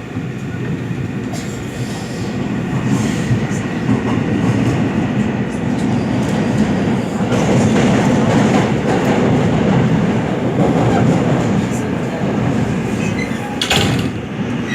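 Seoul Metro Line 7 subway train running at speed: a dense, steady rumble of wheels and running gear that swells a few seconds in, with a short clatter of clicks near the end.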